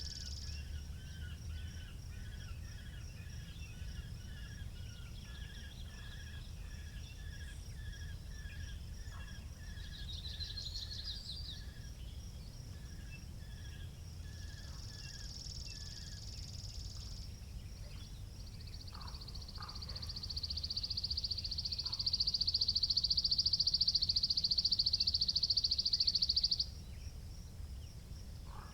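Outdoor rural spring ambience: a steady low rumble of wind under birds calling, with a short chirp repeated about twice a second through the first half and occasional higher trills. In the last third a loud, high buzzing trill runs for several seconds and cuts off suddenly.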